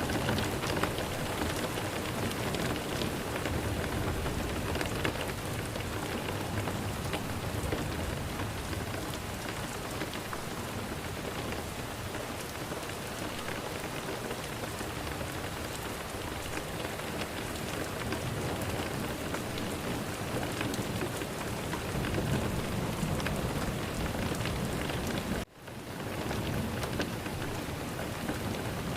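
Steady heavy rain falling, with low rumbles of thunder. The rain cuts out suddenly for a moment near the end and fades back in.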